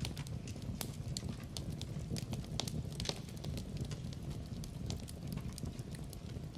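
Wood fire in a fireplace crackling: irregular sharp pops and snaps over a low, steady rumble of burning logs, with one louder pop about three seconds in.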